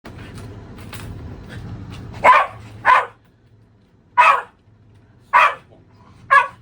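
Shiba Inu barking at a vacuum cleaner: five sharp single barks with pauses between them. A low steady hum runs underneath and is louder in the first two seconds, before the barking starts.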